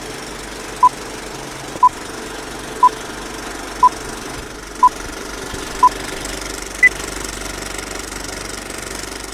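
Vintage film-leader countdown sound effect: a short beep once a second, six alike, then a seventh higher-pitched beep, over the steady clatter of a film projector running.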